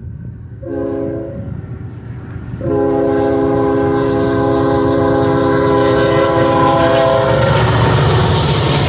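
Freight locomotive air horn sounding a short blast and then a long blast of several notes, the close of a grade-crossing signal, while the train's wheel and rail noise rises as it draws near and passes.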